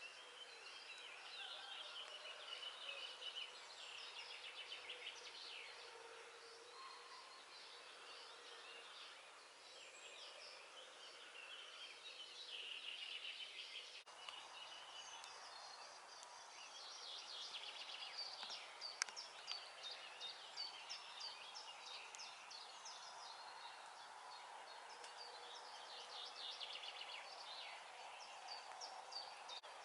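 Faint dawn chorus of several songbirds chirping and trilling at once, overlapping calls throughout, with one sharp click about two-thirds of the way through.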